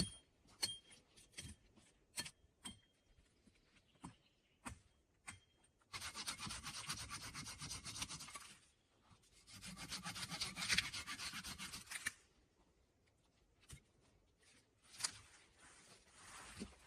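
Dry wood being handled while gathering firewood: scattered small snaps and knocks, then two long rasping scrapes of about two and a half seconds each, wood rubbing against wood or the ground.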